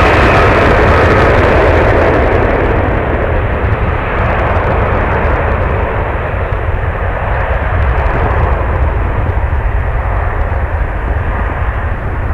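A jet airliner passing, its engine noise loudest in the first couple of seconds and then easing off. Heavy wind buffets the microphone with a steady low rumble throughout.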